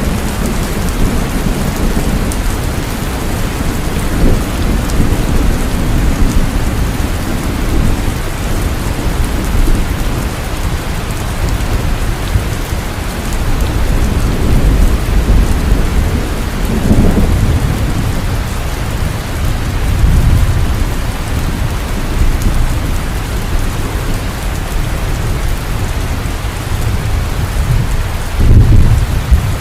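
Heavy rain pouring steadily, with deep rolls of thunder rumbling underneath that swell several times and grow loudest near the end.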